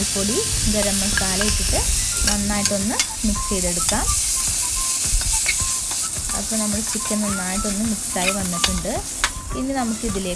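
Chicken pieces sizzling in hot oil in a pan while being stirred with a spatula, with scattered scrapes and clicks of the spatula. A wavering pitched sound comes and goes underneath.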